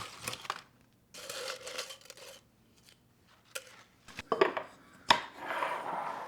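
Kitchen items being handled: a few sharp clicks and knocks of things set down, with two stretches of rustling or scraping in between.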